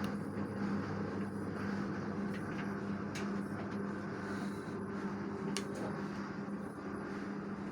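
LG direct-drive washing machine running: a steady low hum under a wash of noise, with a few faint clicks.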